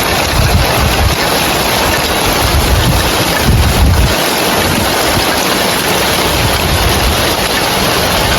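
Heavy rain falling on roof tiles, a steady, dense hiss, with wind gusting against the microphone in uneven low rumbles.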